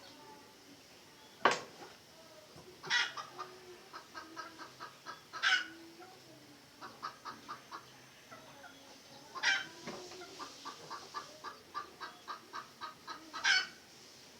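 Red junglefowl clucking in runs of quick short notes, broken by about five louder, sharper calls.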